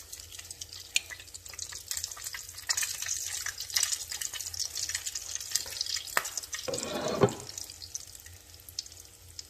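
Breaded grit patties sizzling and crackling in hot oil in a skillet as they are laid in with metal tongs, the frying growing louder once they are in. A short low thud about seven seconds in.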